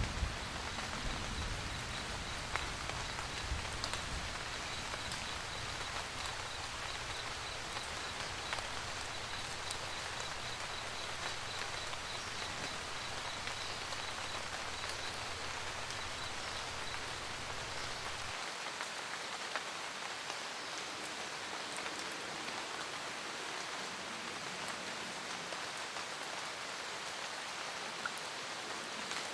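Steady rain pattering on a roof, with scattered louder drops. A faint low rumble underneath stops abruptly about two-thirds of the way through, and a faint high chirp repeats evenly through the first half.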